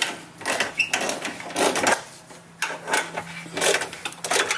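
Irregular metallic clanking and rattling as a Jeep Wrangler JK's rear shock absorber and its seized mounting bolt are wiggled back and forth by hand to work the bolt out.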